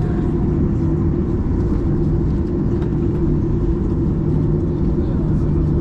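Steady low engine rumble with a constant hum, running without change.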